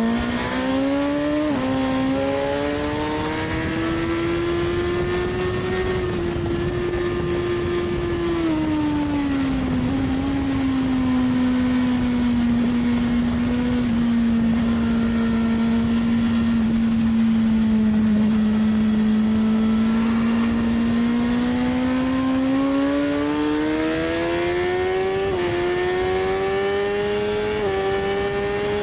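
Suzuki GSX-R1000R inline-four engine heard from the rider's seat under way: it pulls up in pitch and shifts up a gear about a second and a half in, eases off and settles to a steady cruise, then accelerates again with another upshift near the end. Wind rush runs under the engine note throughout.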